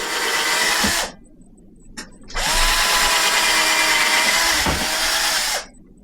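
Electric drill running in two bursts, a short one and then one of about three seconds, its whine rising as the motor spins up and dropping as it stops.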